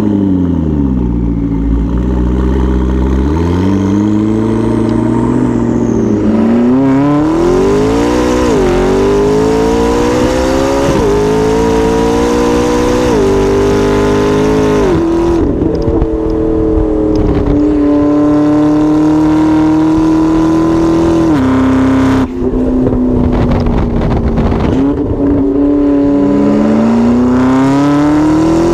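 McLaren MP4-12C's twin-turbo V8 through an Fi aftermarket exhaust, accelerating hard through the gears: the pitch climbs and drops back at each upshift several times, holds steady for a stretch, then climbs again near the end.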